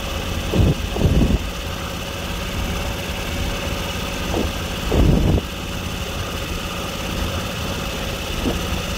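Engine of a truck-mounted Giddings hydraulic soil-probe rig idling steadily, with a few short low bumps about a second in and again around five seconds in.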